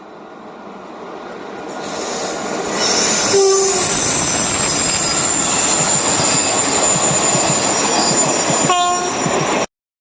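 A train pulls into and runs through a small station. Its noise builds over the first few seconds to a loud, steady rumble with a constant high-pitched wheel squeal. Two short horn toots sound, one about three and a half seconds in and one near the end, and then the sound cuts off suddenly.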